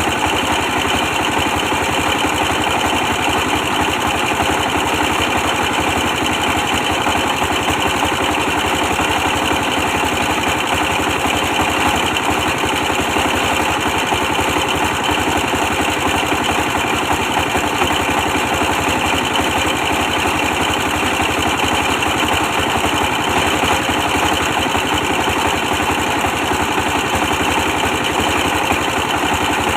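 24 hp diesel engine powering a brick press, running steadily at a constant speed with an even, rapid firing beat.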